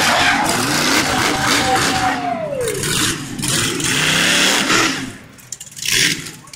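Monster truck engine revving hard, the revs sweeping down about two and a half seconds in. The sound drops off sharply about five seconds in, then comes back in short bursts.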